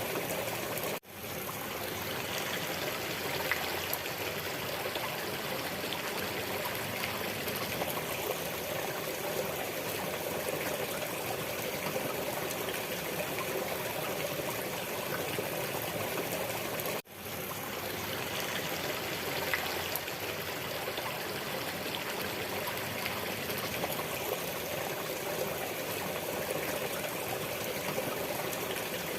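Steady sound of a flowing, trickling stream. The water sound cuts out briefly twice, about sixteen seconds apart, and fades straight back in, like a looped recording restarting.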